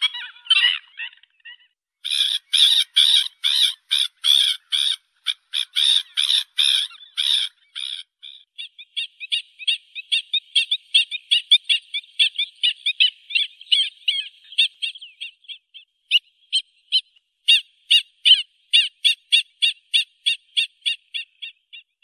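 A flock of stilts calling with short, sharp notes in quick series. The notes come about two a second at first, then in a faster run of short notes, then slower again near the end.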